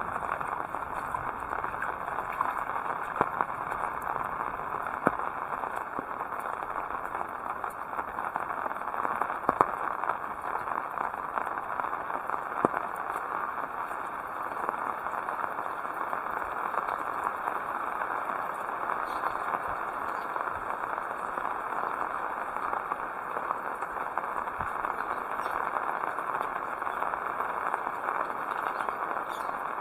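Heavy rain falling steadily, an even hiss with occasional sharp ticks of individual drops striking close by.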